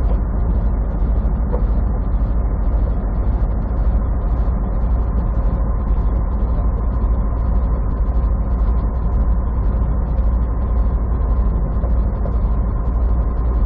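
Semi truck's diesel engine and road noise heard from inside the cab while driving: a steady deep rumble.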